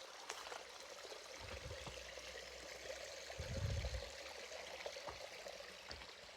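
Stream water running steadily, with a low rumble between about one and a half and four seconds in.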